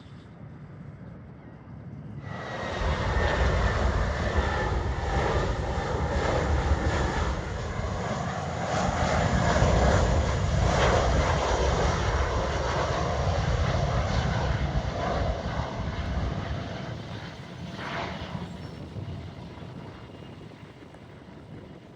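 Jet airliner passing by, its engine noise starting suddenly about two seconds in with a faint high whine, staying loud through the middle, then fading away near the end.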